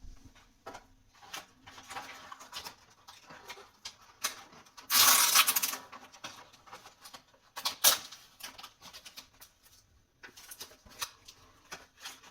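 Handling noise from a microfiber cloth wiping a phone screen: scattered small taps, clicks and rustles, with a louder rustle lasting under a second about five seconds in.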